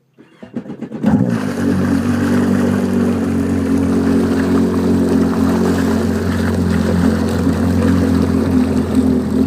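Yamaha VXR WaveRunner's four-cylinder engine with a RIVA aftermarket rear exhaust, cranked by the starter for about a second, then catching and settling into a steady idle.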